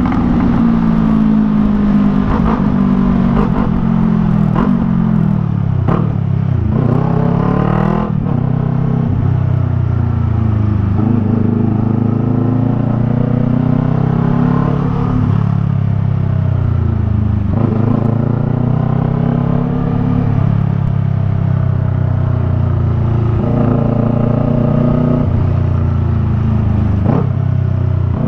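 Yamaha MT-03's parallel-twin engine through a Jeskap R3 Cup aftermarket exhaust, heard while riding: the pitch climbs under acceleration and drops at each gear change, several times over.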